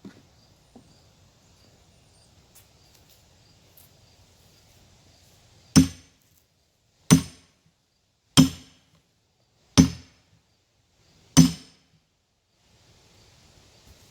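Five sharp blows struck about every second and a half, driving a wedge into a pinching chainsaw cut in a log to spread the cut open.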